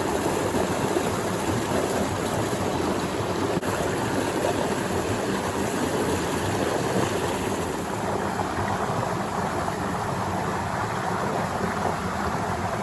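Mountain stream water rushing, a steady, even noise.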